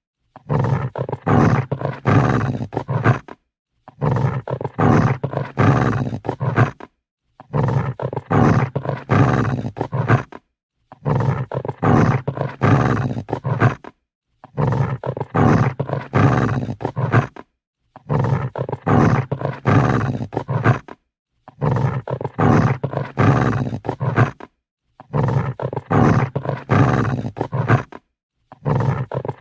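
Dog growling and snarling angrily. The same rough growl of about three seconds repeats roughly every three and a half seconds, with a brief silence between repeats.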